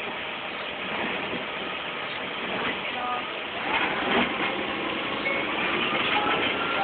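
Steady hiss of rain, with a few faint clicks and a thin, faint high tone in the second half.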